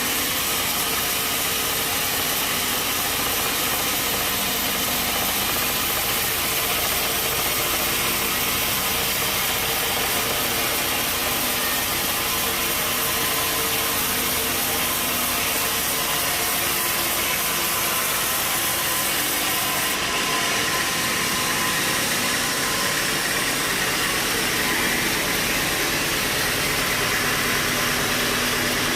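Sawmill machinery running steadily: a constant engine drone with several steady tones over a noisy hiss, its top end shifting abruptly about twenty seconds in.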